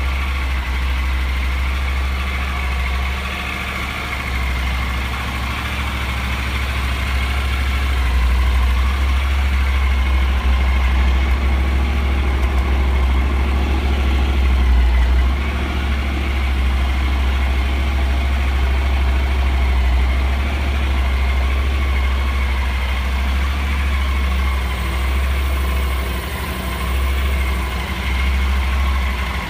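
Honda NC700X motorcycle's 670 cc parallel-twin engine idling steadily through its exhaust, with a deep, even low note and small swells in level.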